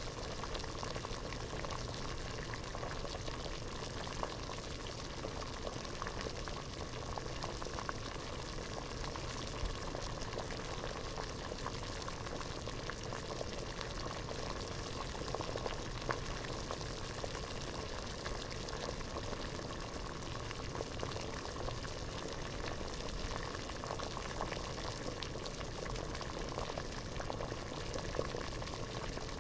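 Water at a rolling boil in a pot, a steady bubbling with many small pops and crackles.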